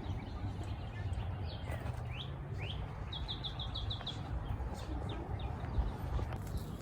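A songbird singing: two rising whistles, then a quick run of about eight short, even notes, over a low steady rumble.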